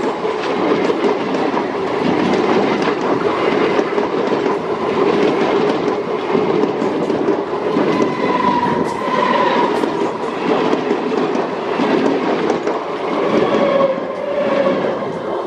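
MEMU electric multiple unit coaches passing close at speed: a steady loud rumble and rattle of wheels on the rails, with faint wavering whines now and then.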